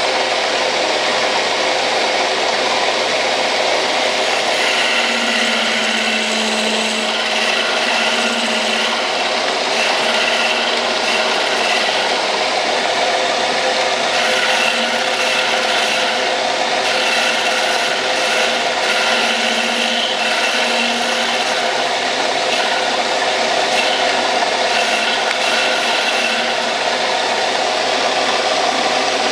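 Metal lathe running under a cut, the tool turning a taper on a metal part: a steady scraping hiss, with a high whine and a low hum that come and go from about five seconds in.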